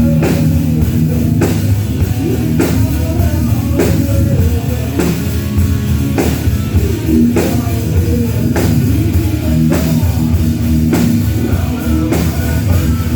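Rock band playing live at a sound check: electric guitar and drum kit, with a heavy drum hit about every 1.2 seconds.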